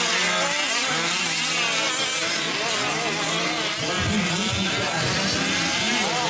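Several 5th-scale RC trucks' small two-stroke gas engines buzzing and revving together, their pitches rising and falling as they race.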